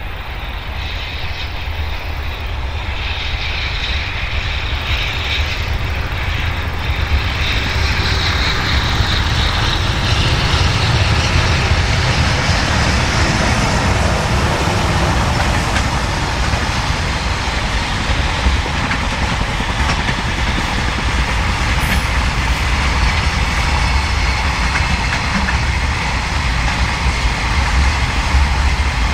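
A train passing close by: a steady rumble of wheels on rail that grows louder over the first several seconds, then holds loud.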